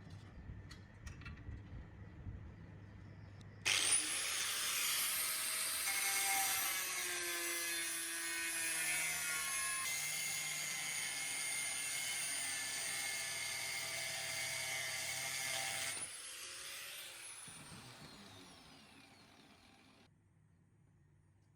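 A few faint clicks, then a high-speed handheld power tool is switched on about four seconds in and runs on metal for about twelve seconds with a high whine. It is switched off and its whine falls away as it spins down over the last few seconds.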